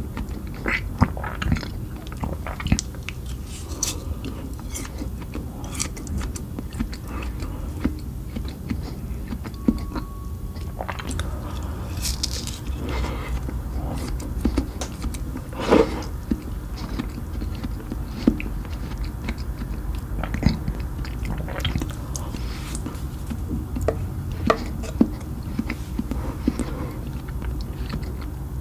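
Close-miked biting and chewing of ice cream, with irregular crisp crunching bites, one louder crunch about halfway through, over a steady low hum.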